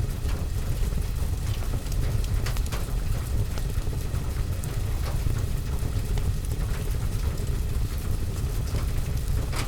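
Steady rain on a window and roof, a deep even rush, with scattered sharp crackles and pops from a wood fire in a fireplace.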